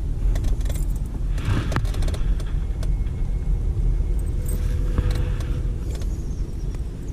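Steady low rumble of wind buffeting the microphone, with scattered clicks and light metallic rattles of handling, and two short rushes of noise about a second and a half in and again near five seconds.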